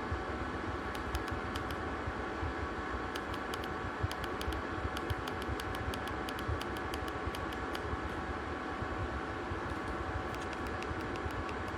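Small ceramic (PTC) portable space heater running: a steady fan whoosh with a hum and low rumble, and faint scattered ticks over it.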